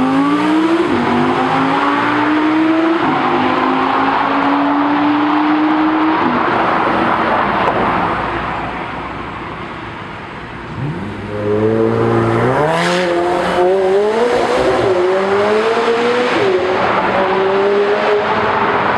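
Supercar engines accelerating hard through the gears, the exhaust note rising and dropping at each upshift. The sound fades away about eight seconds in, then a car accelerates hard again with several quick upshifts.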